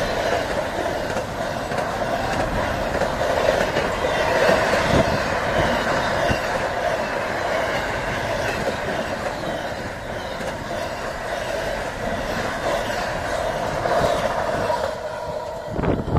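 Container freight train's wagons rolling past close by, a steady loud rumble of steel wheels on the rails. It falls away sharply at the very end as the last wagon passes.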